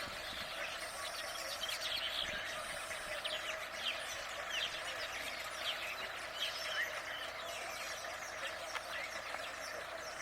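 Wild birds chirping: many short, high, quick chirps, one after another, over a steady outdoor background hum.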